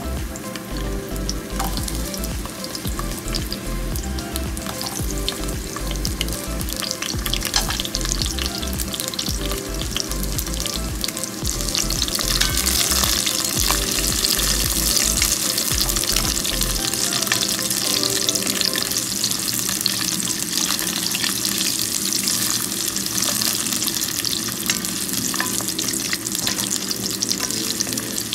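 Garlic, shallots, ginger, a cinnamon stick and bay leaves sizzling and crackling in hot oil in an enamelled cast-iron pot, growing louder about twelve seconds in. Near the end a spatula stirs them.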